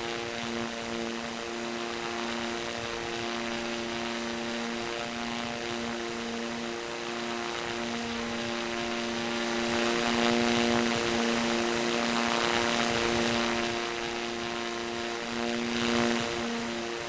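Mi-8 helicopter running, its engines and rotors giving a steady droning hum. The sound swells for a few seconds around the middle and surges briefly near the end.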